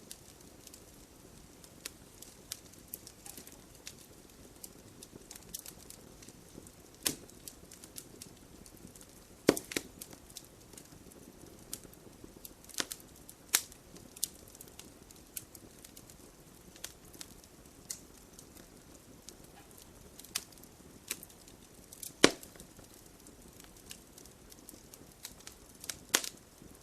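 Wood fire burning in a fireplace: logs crackling, with a faint steady hiss and sharp snaps and pops at irregular intervals, a few of them much louder than the rest.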